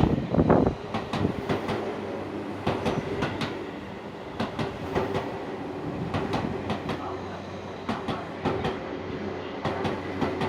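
Coupled electric train sets running through a station without stopping: a loud rush as the front passes near the start, then a steady rumble with repeated wheel clacks over the rail joints as the cars go by.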